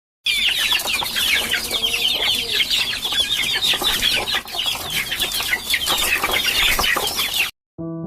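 A crowd of chicks peeping: many short, high, falling cheeps overlapping without a break, with a lower call briefly about one and a half seconds in. It cuts off abruptly near the end, and piano music begins.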